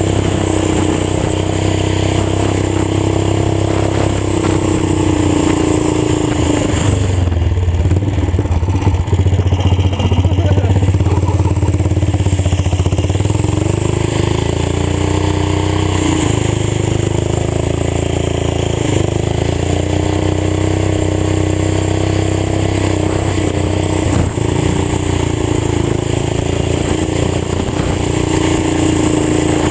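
Old farm tractor engine running with a fully open exhaust, its pitch rising and falling in repeated swells as it is throttled up and eased off. It runs heavier and lower for a few seconds about a quarter of the way in.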